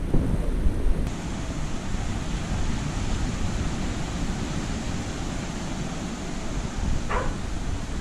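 Wind buffeting the microphone over a steady rushing noise, with a short higher-pitched sound about seven seconds in.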